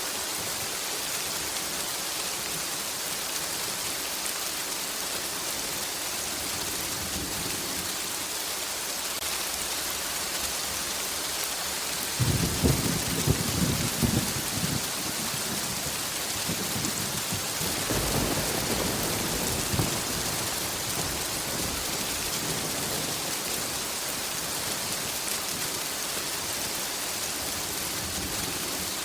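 Steady rain hissing, with a sudden crack and rumble of thunder about twelve seconds in lasting a few seconds, and a second, softer roll of thunder about six seconds later.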